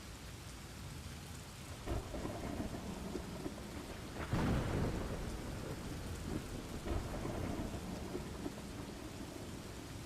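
Steady rain with rolling thunder, one louder rumble of thunder about four seconds in and fainter rumbles around it.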